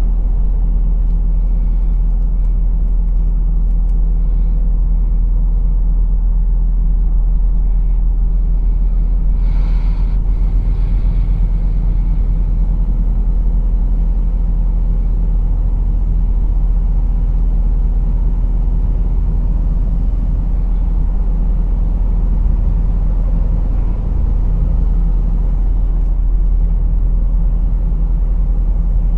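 Lorry engine and road noise: a steady low rumble as the truck drives along. About ten seconds in there is a short hiss.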